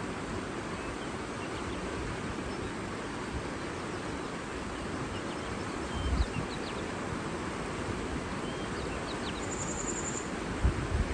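Steady rushing of water, with faint, scattered bird chirps and a brief high trill about ten seconds in. A couple of low wind buffets hit the microphone, about six seconds in and near the end.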